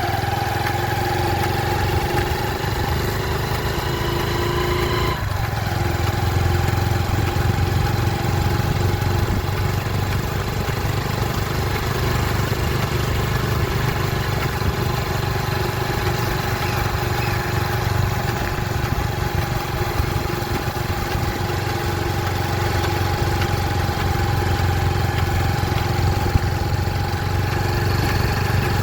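A vehicle engine running steadily, with a low rumble and a constant whine. Its pitch shifts slightly about five seconds in.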